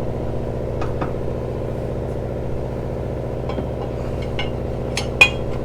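An engine running steadily, with a few sharp metal clinks from tools on rigging hardware; the loudest clink, near the end, rings briefly.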